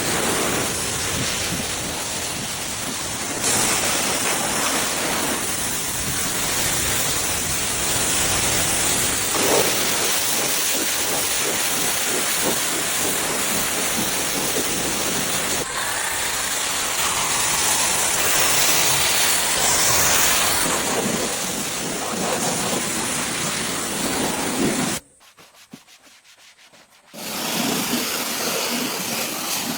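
Steady hiss of a detailing steam cleaner, with a brush rubbing over the car's interior upholstery. The sound cuts out for about two seconds near the end, then picks up again.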